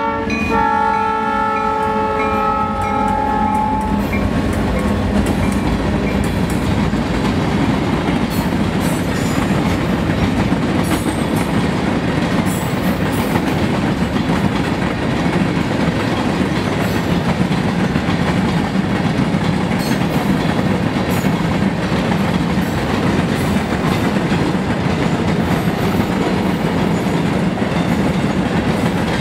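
A diesel locomotive's multi-chime air horn sounds, breaking off briefly and then holding on until it stops about four seconds in. After that a long train of empty ore cars rolls past with a steady rumble of wheels on rail and scattered wheel clicks.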